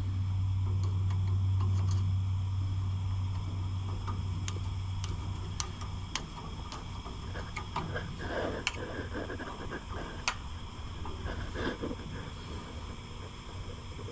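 Scattered light metallic clicks and knocks of hand tools and parts being handled while the exhaust and top frame are taken off an old air compressor. A steady low hum runs under them and stops about six seconds in.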